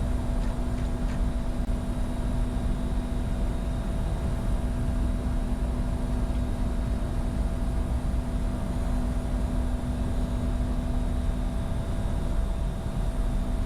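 Steady in-flight cockpit noise of a Bombardier Challenger 605 business jet: a constant rush of airflow and engine noise with a steady low hum running under it.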